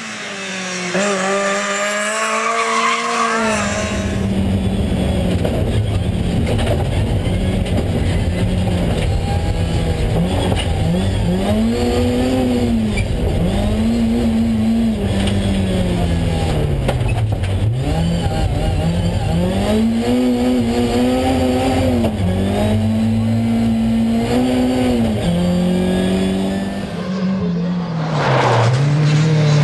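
BMW 318is E36 rally car's four-cylinder engine driven hard. A short pass-by opens the stretch. Then, heard from inside the cabin, the revs climb and drop again and again as the car is shifted through the gears and braked for corners. Near the end a cut brings another pass-by from outside.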